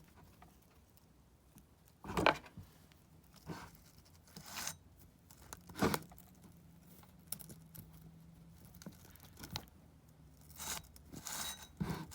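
Irregular knocks, clicks and scrapes of parts being handled and fitted back onto a small Stihl 009 chainsaw, the sharpest about two seconds in and again near six seconds.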